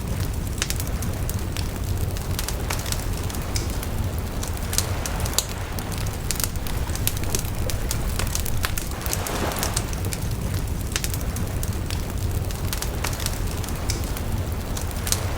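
Wood bonfire crackling: irregular sharp pops and snaps from the burning wood over a steady low rumble of the fire, with a brief swell of rushing flame noise about two-thirds of the way through.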